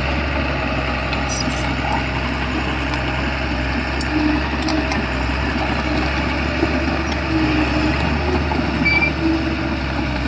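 Shantui bulldozer's diesel engine running steadily, with a few short clicks over it.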